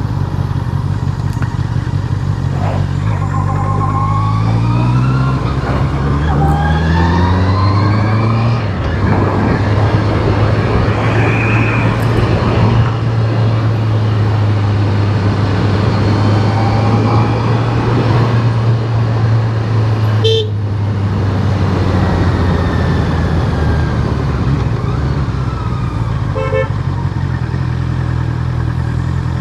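Honda CBR650R's inline-four engine running under way, its pitch climbing through the first several seconds and then holding steady, over a steady rush of wind and road noise. A horn toots briefly twice, about two-thirds of the way in and again near the end.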